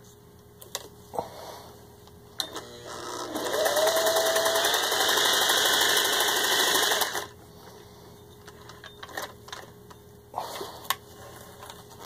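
Vintage Singer 403A zigzag sewing machine running up to speed with a brief rising whine and stitching steadily through four layers of leather for about four seconds, then stopping abruptly. A few light clicks of handling come before and after the run.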